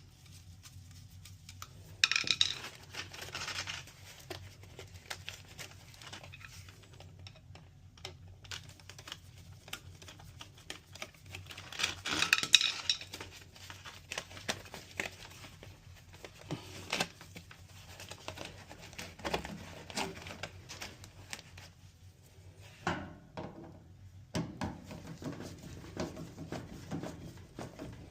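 Metal dryer parts and tools being handled during reassembly: irregular clinks and clatter, with two louder bursts of rattling about two and twelve seconds in.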